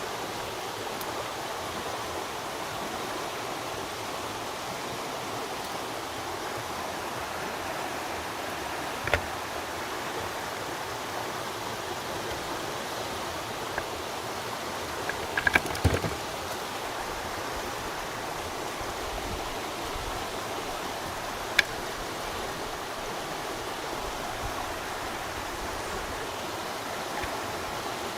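Steady rush of flowing stream water, broken by a few sharp knocks: one about a third of the way in, a short cluster around the middle and one more later.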